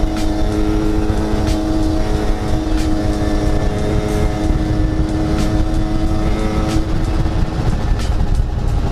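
Yamaha RX-King's two-stroke single-cylinder engine running at a steady speed while riding, with heavy wind rumble on the microphone. The engine's steady note fades out about seven seconds in.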